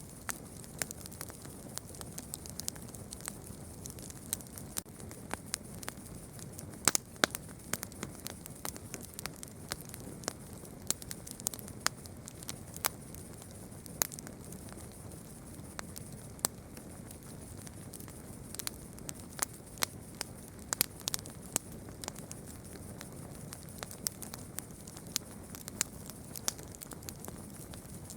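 Campfire burning: irregular sharp crackles and pops, a few louder snaps among them, over a steady low rush of the flames.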